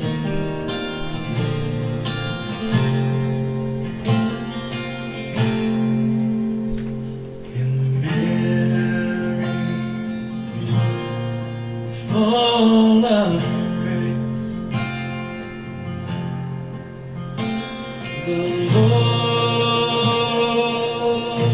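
Instrumental introduction to a song: acoustic guitar strumming chords, with a gliding melody line over it about a third of the way in, around the middle, and again near the end.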